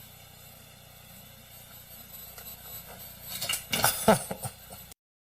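A clatter of hard objects: a quick run of rattling, clinking knocks about three seconds in, over a steady background hiss, cutting off suddenly near the end.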